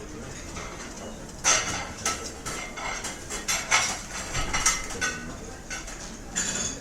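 Restaurant dining-room clatter: cutlery and crockery clinking and knocking against plates, busiest from about a second and a half in, with another burst near the end.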